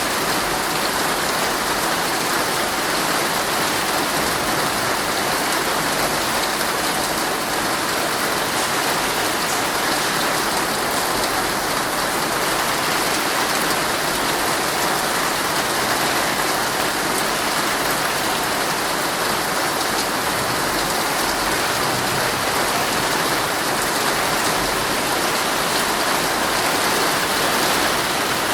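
Heavy rain falling steadily on a tent, a dense, even hiss with no let-up.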